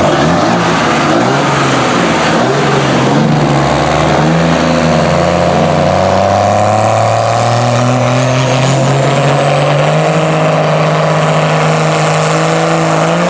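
Diesel pickup trucks launching in a drag race: engines rev up in steps through several gear changes in the first few seconds, then hold a steady high pitch, while a thin high whine climbs slowly through the second half.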